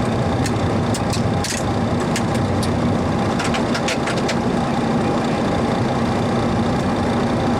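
Steady Boeing 737 Classic flight-deck noise while taxiing after landing: engines at idle under a constant hum of fans and air conditioning. A handful of short sharp clicks come through in the first few seconds.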